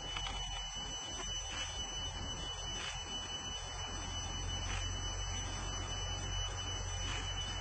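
A steady high-pitched whine with a low hum beneath it, over a faint hiss.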